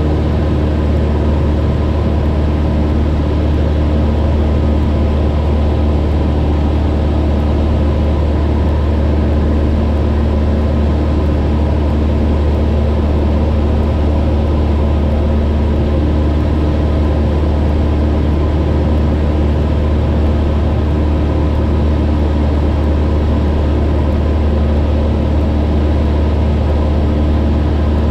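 Cessna 172's piston engine and propeller droning steadily in cruise flight, heard inside the cabin: a loud, even hum with a deep low tone that holds constant throughout.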